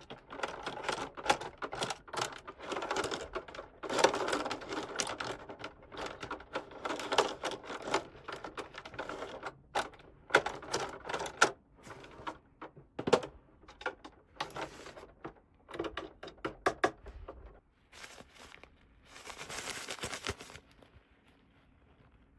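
Small plastic toy pieces being handled, with many quick irregular clicks and taps, and short bursts of rustling about four seconds in and again near the end.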